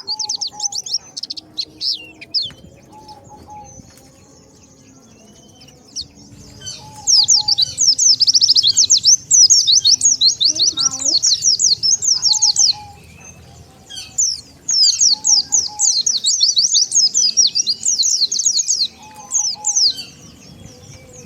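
White-eyes (pleci) singing a rapid, high twittering song of quick chirps in long bursts, quieter for a few seconds early on, with a lower short note repeating faintly underneath. This is a lure call meant to draw wild white-eyes in.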